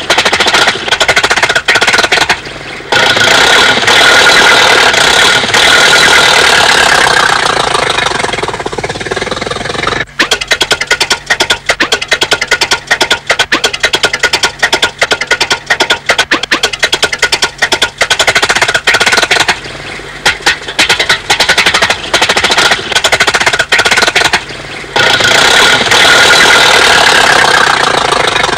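Cartoon sound effect of a small car's engine putt-putting as a dense run of rapid ticks, with a low steady hum under part of it. It is broken twice by stretches of a few seconds of a brighter, hissing sound.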